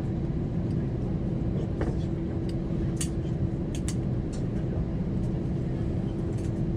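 Cabin noise inside an Airbus A320 on the ground after landing: a steady low rumble with a constant hum and scattered light clicks.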